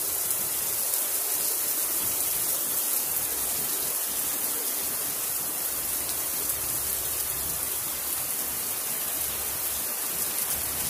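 Heavy rain pouring down onto an asphalt driveway and lawn: a steady, even hiss of a downpour.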